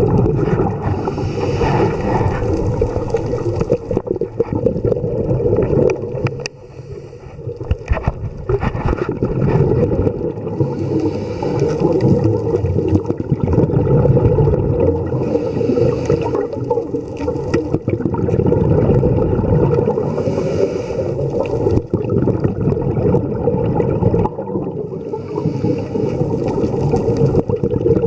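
Underwater scuba-diving sound: a steady low rumble with surges of bubbling hiss every few seconds, typical of a diver's regulator breathing and exhaled bubbles.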